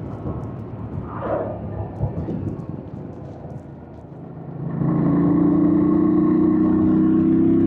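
Yamaha MT-07's 689 cc parallel-twin engine running quietly and unevenly, then about four and a half seconds in it gets much louder and holds a steady engine note.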